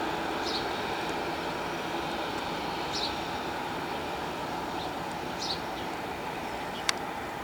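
Airbus A320 jet engines running at taxi power: a steady whine and rumble that slowly fades. Short high chirps repeat about every two and a half seconds, and a single sharp click comes near the end.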